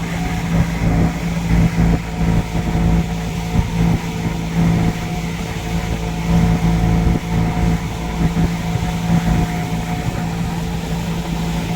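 Boat engine running steadily underway, a constant low hum with overtones over an uneven low rumble.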